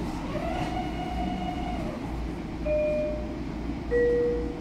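A Long Island Rail Road train at the station: a steady low rumble, with a whine that rises, holds and drops away in the first two seconds. Then come two short chime-like tones, the second lower and louder.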